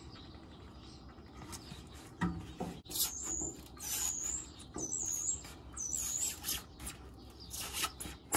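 A bird calling four times, short high chirps about a second apart, over soft knocks and rustles as foam flooring sheets are handled.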